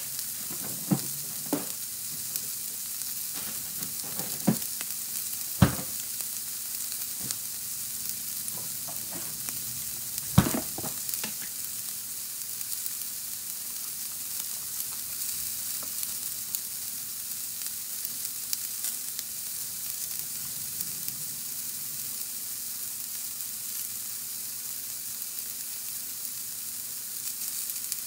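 Chicken pieces and bell peppers sizzling steadily in a stainless steel skillet, with a few sharp clicks, the loudest about five and ten seconds in.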